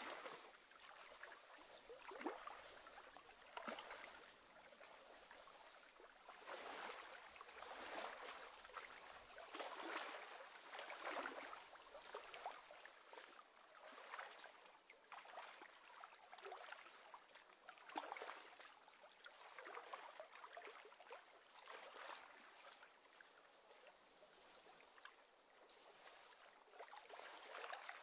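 Faint small waves lapping and splashing against the lake's edge, in irregular washes every second or two.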